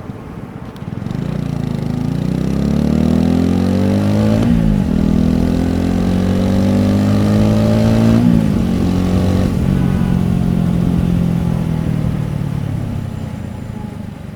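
TVS Apache RTR 4V's single-cylinder engine heard close to its exhaust, accelerating through the gears: the pitch climbs, drops sharply at an upshift about four and a half seconds in, climbs again to a second upshift about eight seconds in, then holds at a steady cruise and fades near the end.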